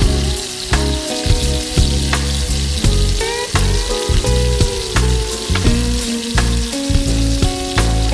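Pieces of battered fish frying in hot oil, a steady sizzle throughout, over plucked guitar background music.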